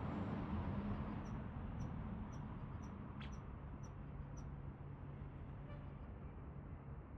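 Low, steady background rumble that slowly fades, with a run of about seven faint, high-pitched ticks, about two a second, in the first half.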